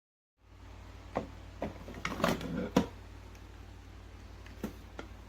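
Sharp clicks and knocks of hard parts being handled on a single-serve coffee maker, a few scattered taps and a louder cluster about two to three seconds in, over a steady low hum.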